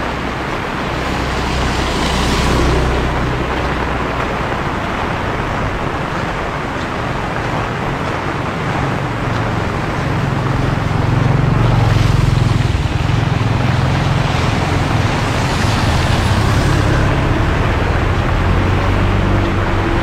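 Steady heavy rain with a vehicle's engine rumbling and tyres hissing on a wet road. The rumble grows louder about halfway through, and the hiss swells twice.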